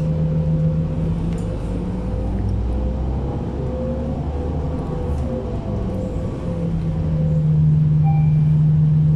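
City bus heard from inside the cabin while riding: steady engine and road rumble with a low drone that fades for a few seconds mid-way and comes back about six and a half seconds in.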